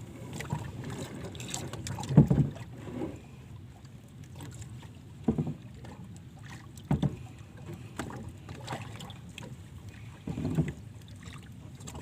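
Steady wind and water noise from a small boat while handline fishing, broken by four short dull knocks.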